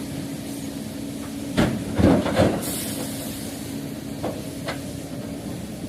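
Heavy diesel machinery running steadily, with a few loud clanks about a second and a half in, then a short burst of air hiss. Two fainter knocks follow later.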